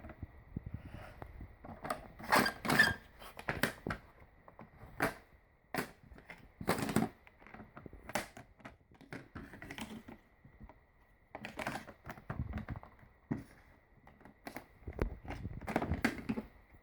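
Irregular clicks, knocks and short clatters of small hard objects being handled, with a faint steady high whine throughout.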